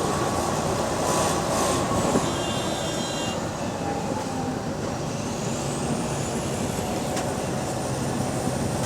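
Double-decker bus with an exhaust leak, heard from inside the passenger cabin: the engine runs steadily over road noise while moving. There is a brief high squeal about two seconds in and a rising whine from about five seconds in.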